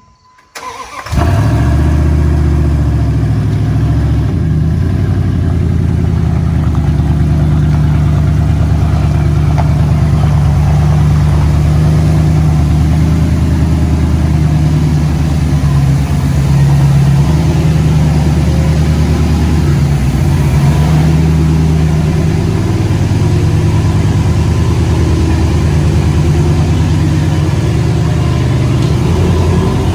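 Second-generation Dodge Ram's V8 engine running loud and steady, likely on open headers. It comes in abruptly about a second in.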